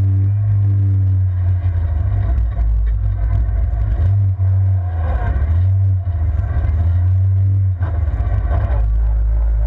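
Vauxhall Corsa rallycross car's engine running at a fairly steady pitch, heard from inside the stripped-out cabin with a heavy, steady rumble.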